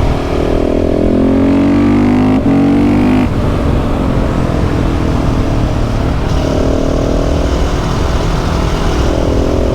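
KTM 690 SMC R single-cylinder engine under way, revving up through a gear with a shift about two and a half seconds in. It eases off a second later, then climbs in pitch again after about six seconds.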